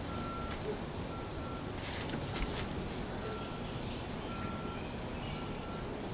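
Backyard ambience with birds calling: a short whistle on one pitch repeated every second or so, with fainter chirps. A few sharp clicks about two seconds in.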